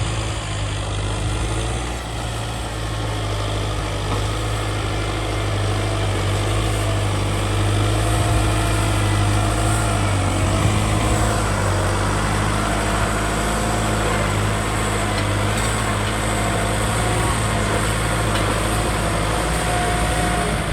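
Kubota ZT155 DI single-cylinder diesel engine of a hand tractor running steadily, growing somewhat louder about a third of the way in.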